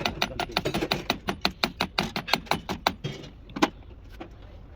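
Rapid, even metallic clicking, about six clicks a second for some three seconds, then a single louder click.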